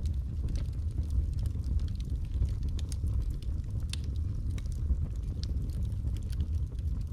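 Wood fire burning in a fireplace: a steady low rumble of the flames with scattered, irregular crackles and pops of the burning wood.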